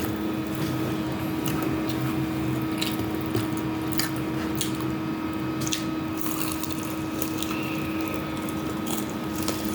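Close-up eating sounds, chewing and wet squishy mouth noises with scattered short clicks, over the steady hum of a running electric fan.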